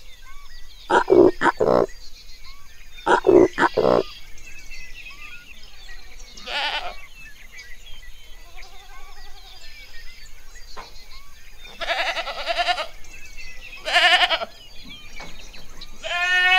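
Low, short grunting animal calls in two quick groups of three in the first few seconds. Then a goat bleats several times, the last a long wavering bleat near the end.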